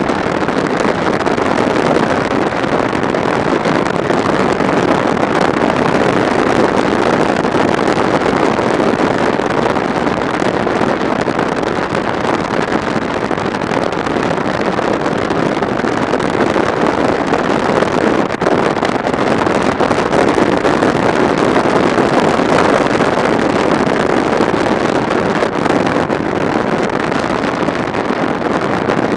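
Steady wind rush on the microphone of a camera on a moving motorcycle, blended with road and engine noise. The sound is an even, unchanging roar, with no clear engine pitch standing out.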